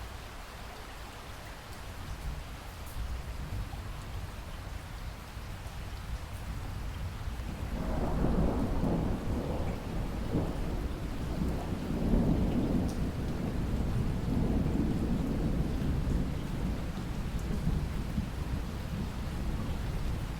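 Steady rain falling, with a long roll of thunder that starts about eight seconds in, swells again a few seconds later and slowly dies away.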